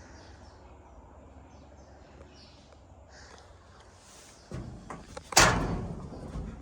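Large sliding door of a machine shed being opened: a low rumble on its track about four and a half seconds in, then a loud metallic bang about a second later that rings and fades.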